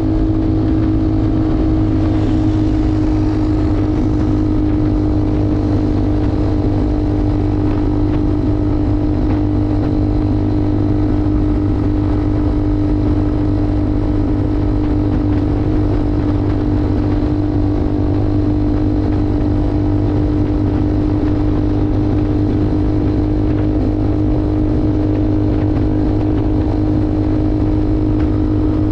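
Motorcycle engine running steadily at an almost constant pitch, heard from on the bike while riding, over an even rush of road and wind noise.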